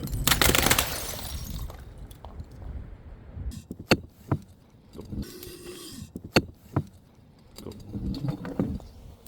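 Glass breaking with a crash that fades over about a second, followed by a few separate sharp clinks of glass pieces.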